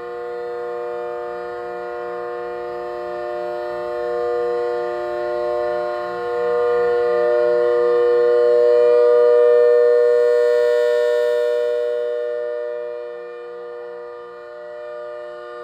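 ACA Hurricane siren with a square rotating horn, sounding a steady chord of several pitches. It grows louder toward the middle, loudest about nine or ten seconds in, then fades again as the horn sweeps past.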